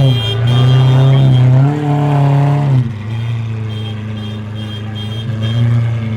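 Lamborghini Aventador SVJ's V12 through a Deutsch Tech aftermarket exhaust, revved and held twice. About three seconds in it drops back to a lower, steady idle.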